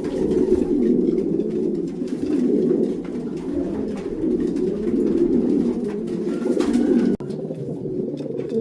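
Many racing pigeons cooing together in a loft, a dense, continuous chorus of overlapping coos from cocks and hens paired up in their nest boxes.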